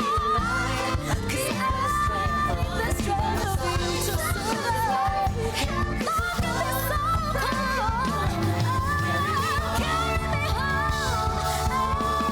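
A high female voice sings a soulful pop ballad with quick melismatic runs over a full band accompaniment.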